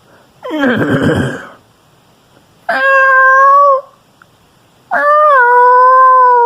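A person imitating animal calls with their voice: a rough call falling in pitch, then two long, steady, high-pitched calls.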